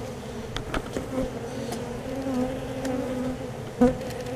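Honeybees buzzing around an open colony, a steady low hum. A few light clicks, and one sharper knock near the end.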